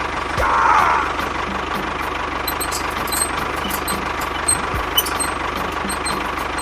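Small engine running steadily, with a thin steady whine over it, a brief louder rush about half a second in and a couple of faint knocks.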